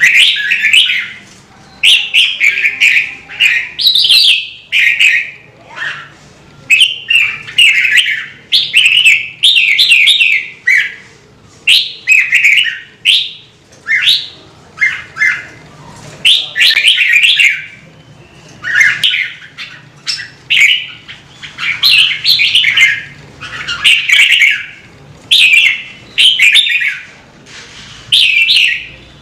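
Red-whiskered bulbul singing: short, quick warbled phrases repeated over and over with brief pauses between them.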